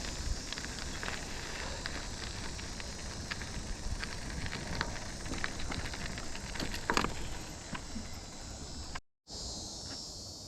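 Riding noise from an e-bike: a steady low wind rumble and rustle with scattered sharp ticks and clicks. After a brief cut near the end, insects chirping in a steady high buzz.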